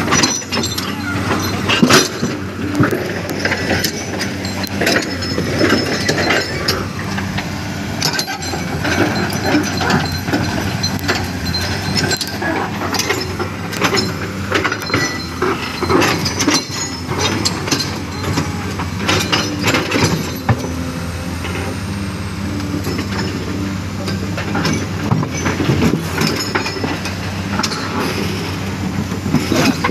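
Komatsu excavator's diesel engine running steadily under load, with repeated irregular knocks and clanks of the bucket working rock and dirt.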